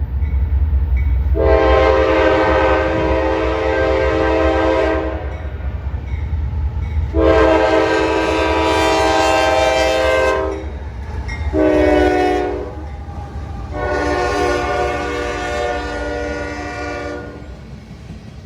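Diesel locomotive horn sounding the grade-crossing signal, long, long, short, long, over the low rumble of the passing train, which fades near the end.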